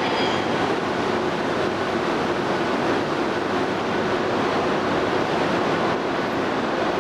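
E2 series Shinkansen train at the platform, giving a steady rushing rumble that holds even throughout.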